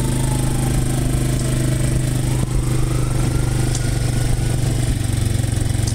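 An engine running steadily at an even speed. A faint whine slides down in pitch, then rises again about two seconds in.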